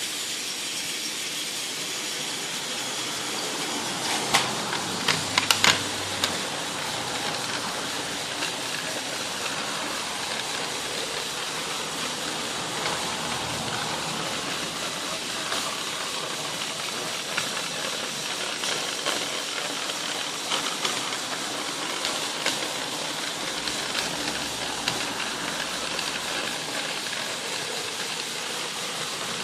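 Battery-powered Trackmaster toy locomotive's long drive unit whirring steadily as it runs on plastic track and the turntable, with a few clicks and clatters about four to six seconds in.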